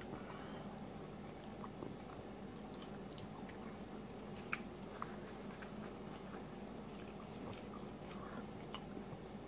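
Faint chewing and wet mouth sounds of a person eating a soft tortilla wrap filled with scrambled egg, with small scattered clicks and one sharper click about halfway through, over a steady low hum.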